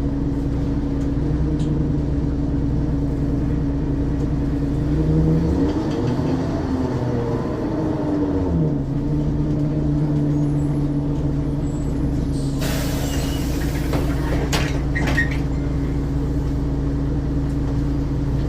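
Ikarus 435 bus's diesel engine running steadily at idle; its pitch rises briefly about five seconds in and settles back about three seconds later. Near the middle comes a loud hiss of compressed air lasting over a second, followed by a few short pneumatic clicks and hisses.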